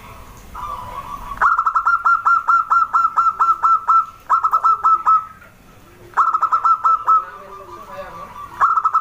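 Zebra dove (perkutut) calling: rapid runs of short, evenly repeated cooing notes, about four or five a second. A long run of roughly a dozen notes starts about a second and a half in, followed by three shorter runs with brief pauses between them.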